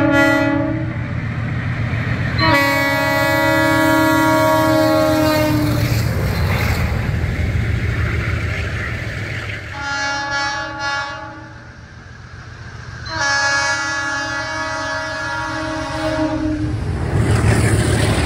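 MLW diesel locomotives sounding their multi-tone air horn as they approach: the end of one blast at the start, a long blast of about three seconds, two short toots about ten seconds in, then another long blast of about four seconds. A steady diesel engine rumble runs underneath and grows louder near the end as the locomotives come close.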